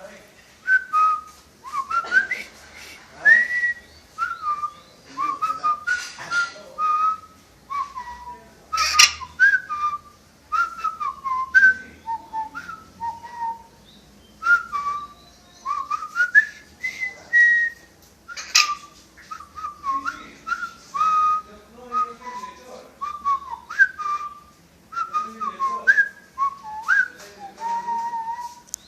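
A run of short whistled notes gliding up and down, some climbing in steps like phrases of a tune, broken by several sharp clicks.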